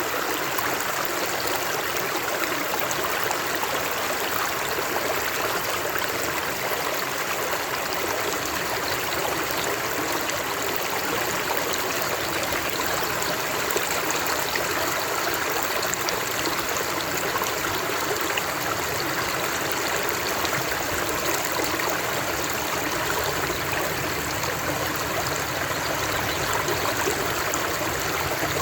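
Flowing stream water, a steady rushing and trickling with no breaks.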